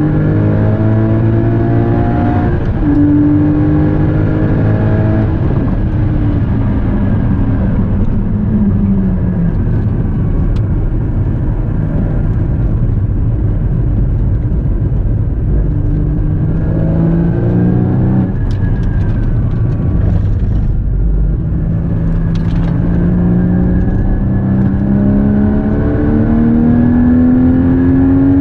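Porsche Cayman GT4's 3.8-litre flat-six heard from inside the cabin, driven hard on a track. The revs climb repeatedly and fall back at shifts and when lifting for corners, with a longer drop in revs about two-thirds of the way through before it pulls up again.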